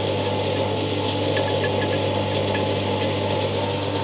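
Avgas fuel dispenser pump running steadily with a constant electric hum while fuel is drawn off into a sampling jar.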